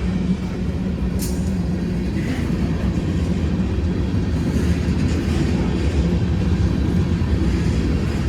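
Freight cars of a long, heavy freight train rolling past, a steady low rumble of steel wheels on the rails.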